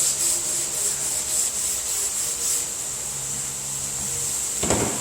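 Hand block sanding of a car body panel: sandpaper on a flexible round sanding block, bent to follow the panel's curve, rasping in quick back-and-forth strokes about two to three a second, easing off after about halfway. A short knock sounds near the end.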